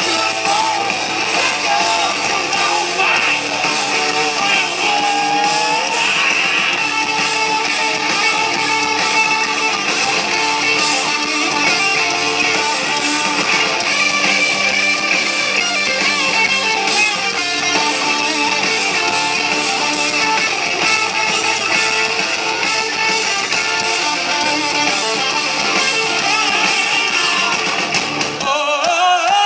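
Live hard rock band playing an instrumental stretch, led by distorted electric guitar over bass and drums.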